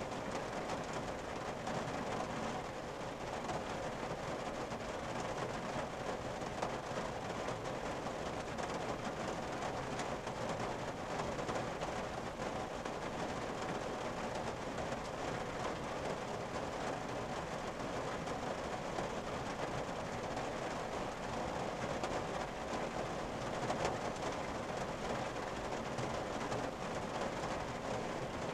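Steady rain falling on a car's roof and windshield, heard from inside the cabin as a dense, even spatter of drops.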